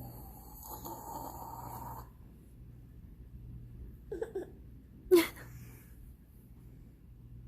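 A baby's brief vocal sounds: a couple of short grunts about four seconds in, then a sharp squeal about a second later. A soft rustling hiss fills the first two seconds.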